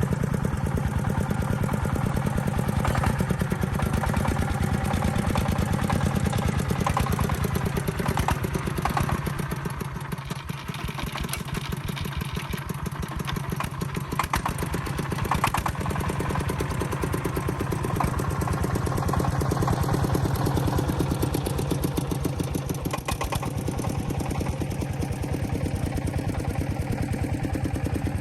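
A small engine running steadily at idle, its firing pulses even, with a brief dip in level about a third of the way in.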